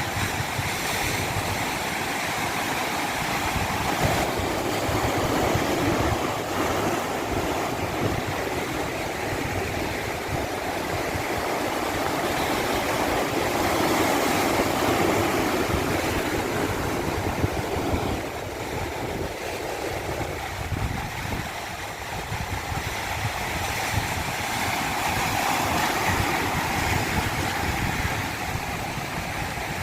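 Rushing natural water: a continuous noise that swells for several seconds, eases, and builds again.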